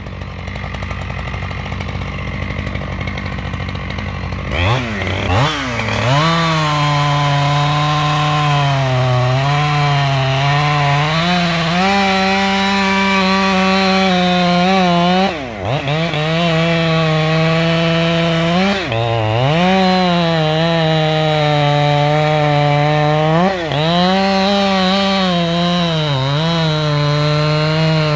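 Two-stroke Husqvarna chainsaw cutting into wood at high throttle, its pitch sagging under load and picking up again. It revs up a few seconds in and drops off briefly three times, about 15, 19 and 24 seconds in.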